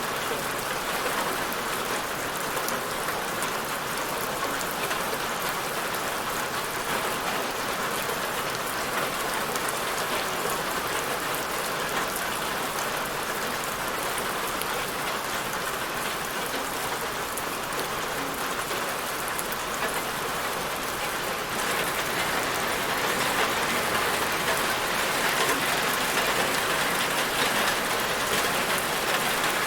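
Steady rain falling, a dense even hiss of drops with fine individual patters through it. It grows a little louder for the last third.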